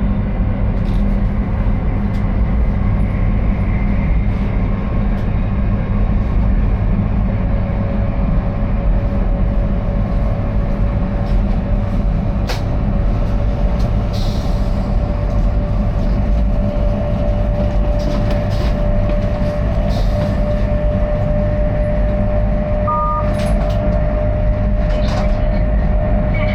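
Steady low rumble of a moving vehicle, with a faint whine that comes in about a quarter of the way through and slowly rises in pitch.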